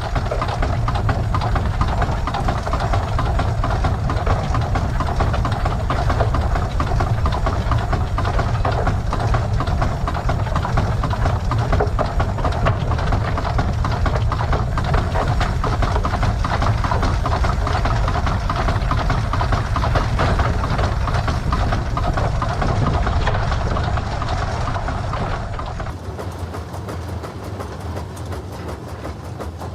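Case 150 hp steam traction engine running as it is driven: a steady mechanical clatter with a fast, even beat. It drops a little quieter and changes character near the end.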